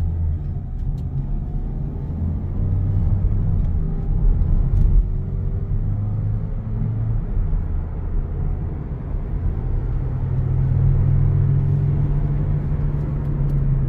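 Mazda CX-3 driven at about 75 to 80 km/h, heard from inside the cabin: steady road rumble with a low hum that grows louder and slightly higher after about ten seconds. The hum is the sign of a worn rear wheel bearing.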